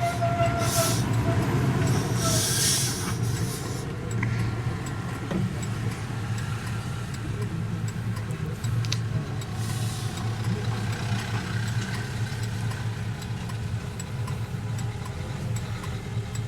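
1968 Rover P5b with its 3.5-litre V8 driving along, engine and road noise as a steady low drone. Brief hissing rushes come twice in the first few seconds and once more about ten seconds in.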